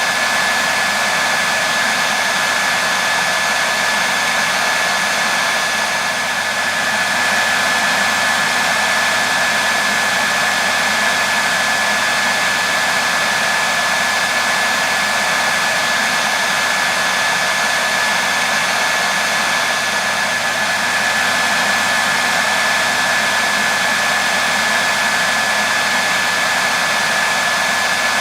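Hair dryer running continuously: a steady rush of blown air with a constant high whine.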